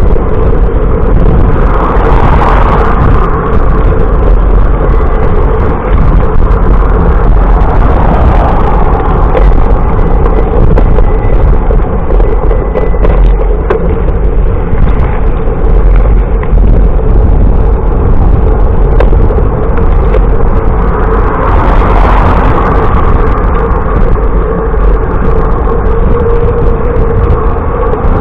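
Loud, steady wind rumble on the microphone and road noise while cycling, swelling twice: a couple of seconds in and about three quarters of the way through.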